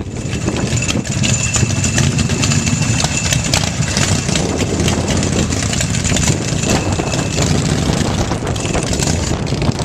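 Engine of a construction machine running steadily, with a thin steady whine over it and scattered light clanks.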